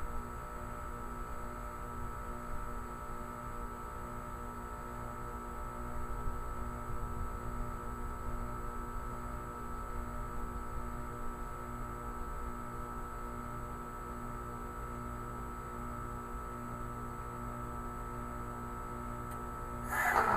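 2010 Tempstar heat pump outdoor unit running with a steady hum made of several even tones. A brief, louder burst of noise comes right at the end.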